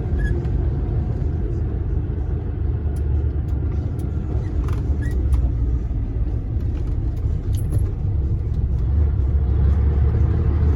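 DAF dump truck's diesel engine running under way, heard from inside the cab as a steady low rumble with road noise and a few light rattles.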